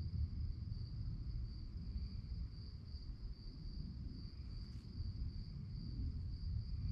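Crickets chirping in a continuous high, slightly pulsing trill, over a steady low rumble of background noise.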